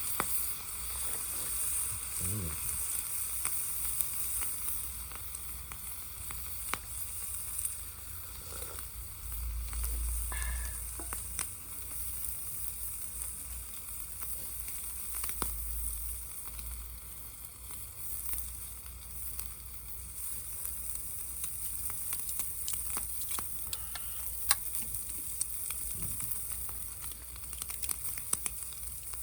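Food sizzling in a frying pan over a wood gas stove: a steady frying hiss with scattered pops and crackles throughout.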